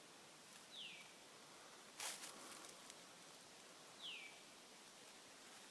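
Faint outdoor quiet with a bird giving two short, falling whistled notes about three seconds apart. A brief crackle or rustle about two seconds in is the loudest sound.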